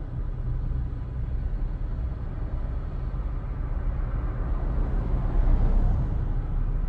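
Car on the move: a steady low rumble of engine and road noise, growing louder for a moment about five seconds in.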